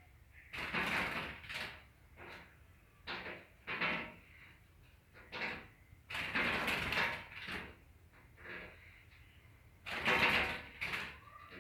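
A small pet bird fluttering and scrabbling at its own reflection in a mirror: irregular short bursts of scraping and rattling, a dozen or so, some louder than others.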